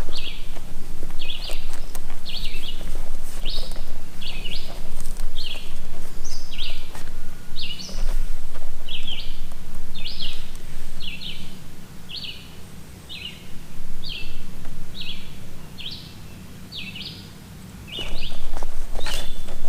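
A bird chirping over and over, one short note about once a second, over a steady low hum. Some knocking handling noise comes in near the end.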